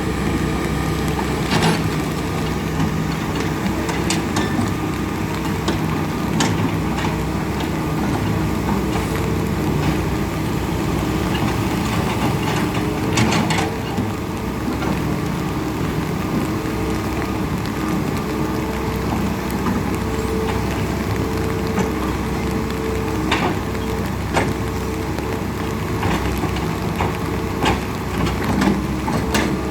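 An engine running steadily at a constant speed, with scattered short clicks and knocks.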